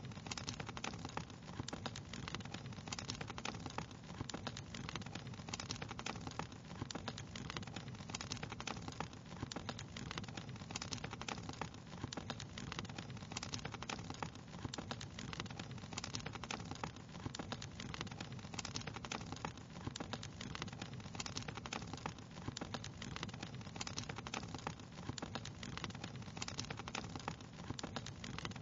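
Wood fire crackling steadily, with a soft low rushing of flames under dense, irregular sharp pops and snaps.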